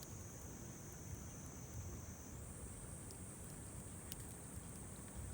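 Faint, steady high-pitched insect chirring that shifts up in pitch a little over two seconds in, over a low outdoor rumble. A faint crackle of the wood campfire comes about four seconds in.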